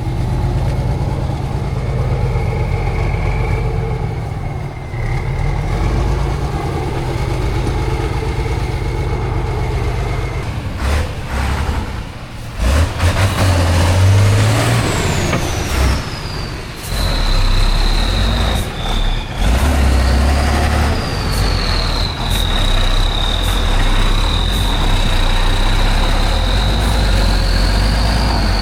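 Heavy off-road competition truck's diesel engine running and revving in surges, with a high whine that drops in pitch about halfway through and then holds steady.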